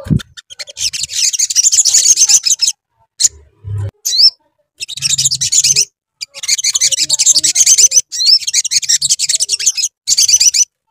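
Little spiderhunter (sogok ontong) singing a fast, high chattering song in several bursts of a second or two each, with short pauses between them.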